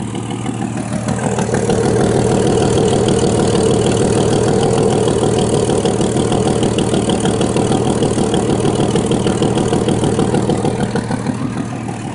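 1989 Jeep Cherokee's 4.0 L straight-six engine running with its exhaust manifold gasket blown out at the rear, the leak pulsing rapidly with the firing. The engine gets louder over the first couple of seconds and eases off slightly near the end.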